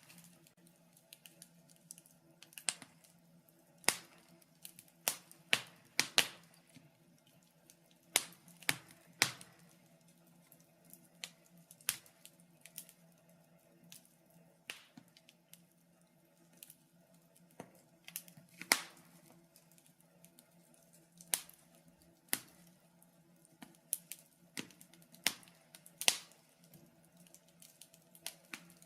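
Wood fire burning in a fireplace: irregular sharp crackles and pops from the burning logs, over a faint steady low hum.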